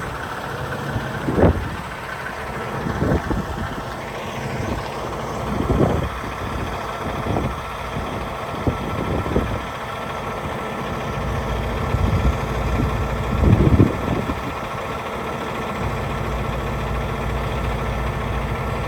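Diesel truck engine idling with a steady low hum, with a few brief louder noises over it.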